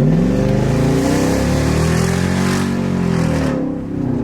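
Lexus SC400's 4.0-litre V8 running through a new aftermarket exhaust on a hard acceleration pull, the revs climbing steadily. About three and a half seconds in the throttle is released and the revs fall away.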